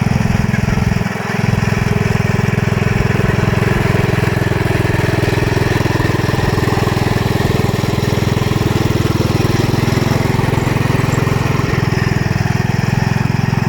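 Sears ST16 garden tractor engine running steadily, briefly dipping about a second in.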